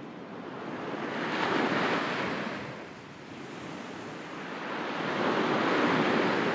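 Sea waves washing onto a shore: two slow swells of surf, one peaking about two seconds in and the next near the end.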